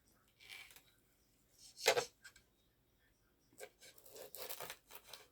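Eating and cutlery sounds: a few short scraping, rustling bursts, the loudest about two seconds in, then a run of them near the end.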